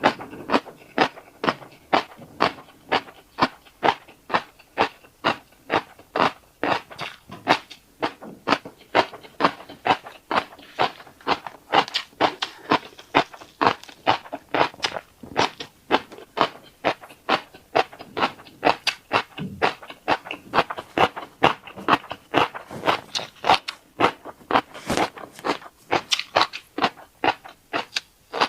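Close-up mouth sounds of eating fish roe: rapid wet clicks and pops, about three a second, as the roe is chewed and burst.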